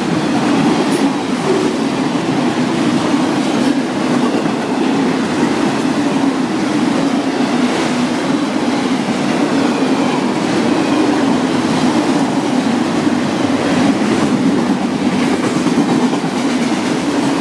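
Autorack freight cars rolling past at speed: a loud, steady rumble of steel wheels on rail, with scattered clicks as the wheels pass over the track.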